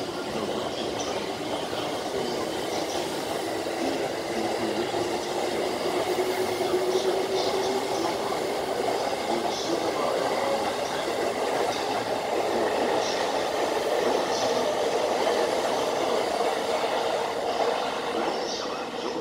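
Electric commuter train of the Tokaido Line running past on the adjacent track and drawing away: a steady rumble of wheels on rail and running gear with a faint hum, lasting the whole time, easing slightly near the end.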